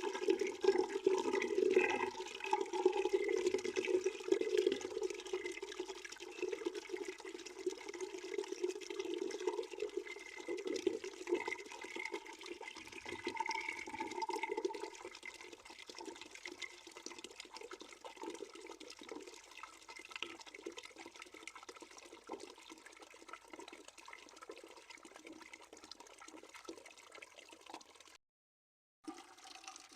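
Water pouring into a bucket, a continuous splashing, gurgling stream. It is louder through the first half and softer from about halfway on, with a brief gap in the sound near the end.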